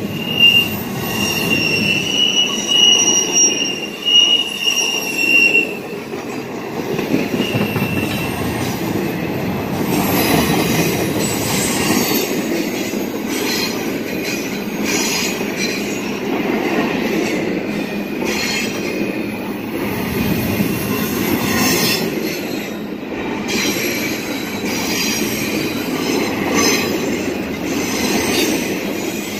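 Double-stack intermodal well cars of a long freight train rolling past: a steady rumble of steel wheels on rail with scattered clatter. A high-pitched wheel squeal sounds over it for about the first six seconds.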